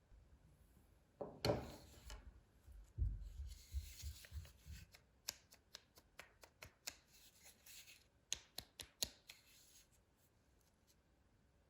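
Light handling sounds: a brief rub about a second in, a low thump near three seconds, then a run of sharp clicks and taps that stops about two-thirds of the way through.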